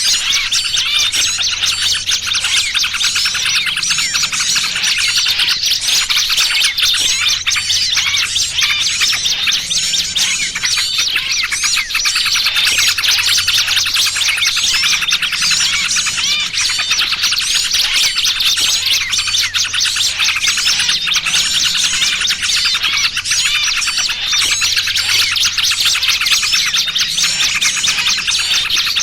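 Many small birds chirping and chattering at once in a dense, unbroken stream: a bird-lure (pikat) recording that mixes busy small-bird chatter with the distress calls of a small bird caught fast, played to draw wild small birds in.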